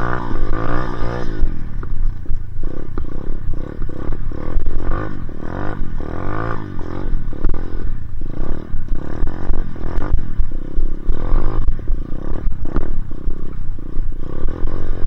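Dirt bike engine revving up and down while riding and drifting on snow, its pitch rising and falling over and over.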